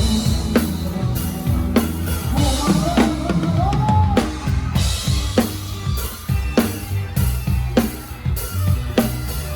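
Live band music heard close to the drum kit: steady drumming with bass drum, snare and rimshots over a bass line. A melodic line bends up to a held note about three to four seconds in.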